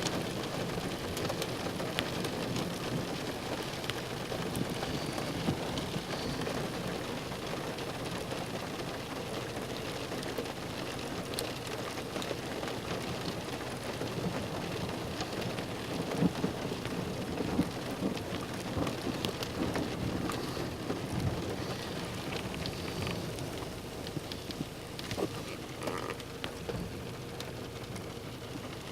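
Steady rain falling during a thunderstorm, with many sharp drop hits ticking on a nearby surface; the rain eases slightly near the end.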